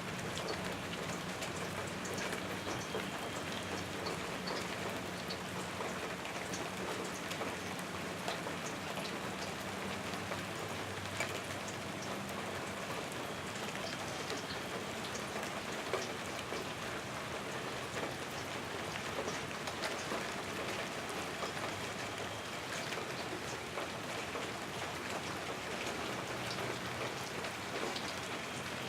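Steady rain falling on surfaces, an even patter with scattered individual drop ticks.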